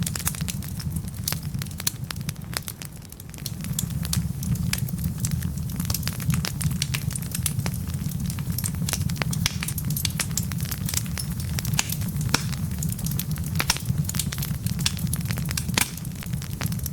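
Wood fire burning in a fireplace: many sharp crackles and pops over a steady low rumble of the flames, easing off briefly about three seconds in.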